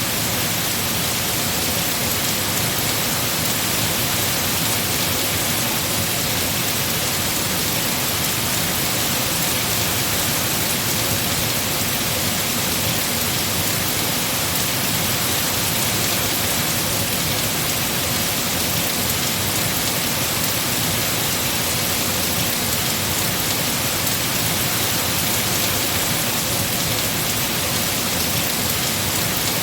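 Heavy rain falling steadily on tree foliage, an even, unbroken hiss.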